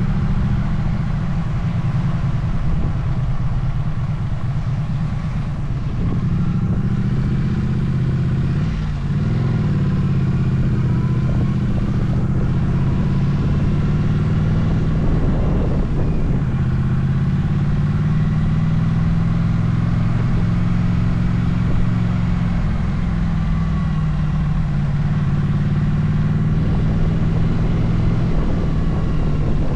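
Motorcycle engine running while riding, its pitch rising and falling with the throttle and gear changes.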